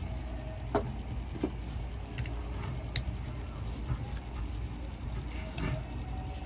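A few scattered sharp clicks and taps of a tool and metal parts being handled while an angle grinder is taken apart, over a steady low hum.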